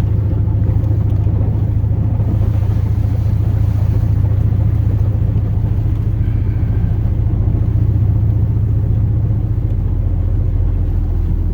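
A 2002 Chevrolet Silverado plow truck's 8.1-litre big-block gas V8 running at a steady cruise with road noise, a steady low rumble.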